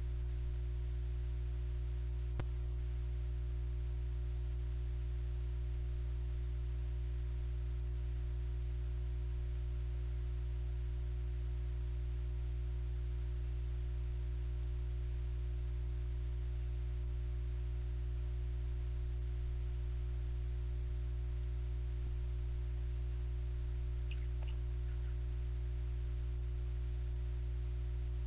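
A steady low hum with a single sharp click about two seconds in and a couple of faint ticks near the end.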